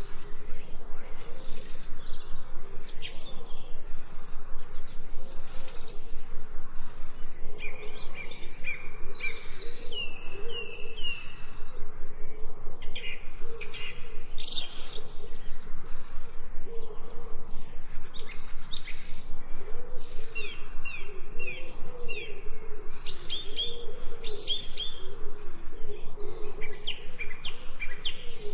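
Forest birds chirping in short, falling calls over a steady soundscape. A high buzzing insect pulses about once a second, and low wavering calls come and go underneath.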